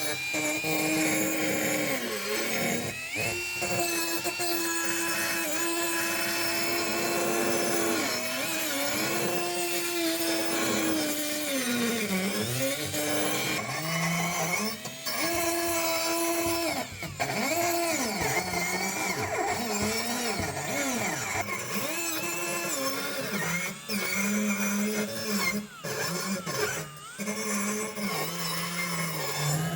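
Small electric power tool running steadily, its motor pitch repeatedly sagging and recovering as it is pressed into the work and eased off.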